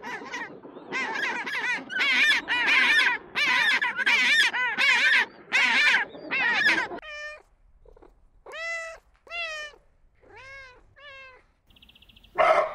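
Cats meowing: about ten calls in quick succession, then five or six fainter separate meows, and a short louder call near the end.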